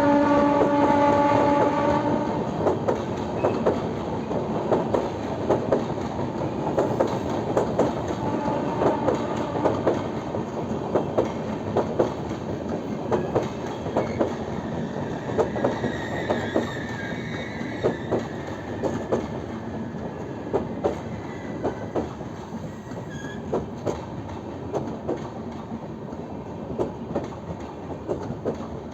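Train horn sounding a steady chord that stops about two seconds in, then the train's wheels clacking rapidly over the rail joints over a steady rumble, slowly growing quieter. A faint high tone rises and falls about midway.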